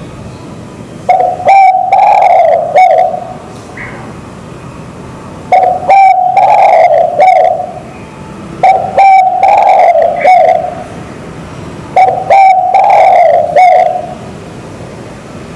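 Zebra dove and spotted dove cooing back and forth, four rolling cooing phrases of about two seconds each, spaced a few seconds apart.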